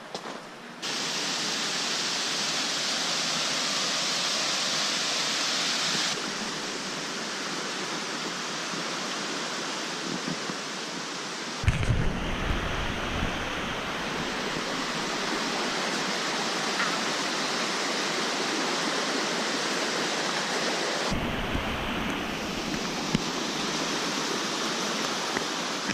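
Waterfall rushing: a steady noise of falling water that changes abruptly several times, about a second in, at six, twelve and twenty-one seconds, with a deeper rumble in the later stretches.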